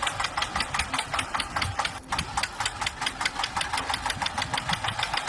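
A toy vehicle's engine sound: rapid, even chugging clicks, about eight or nine a second, thin and high with little low end.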